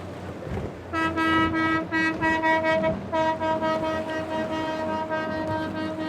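A boat's horn sounding: two short blasts, then a long steady blast from about three seconds in, over wind and water noise.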